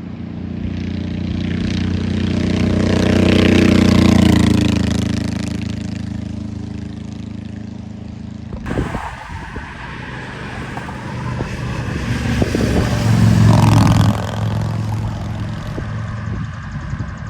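Motorcycle engines passing by, each one building up and then fading away. There are two pass-bys, the second after an abrupt cut about nine seconds in.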